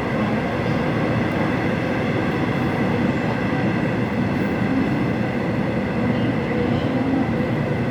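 Seoul Subway Line 8 train running: a steady rumble with a faint high tone held throughout.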